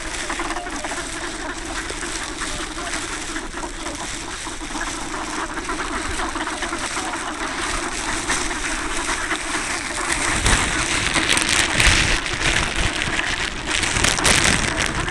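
A flock of ducks on a river, calling and splashing in the water, with wind gusting on the microphone in the second half.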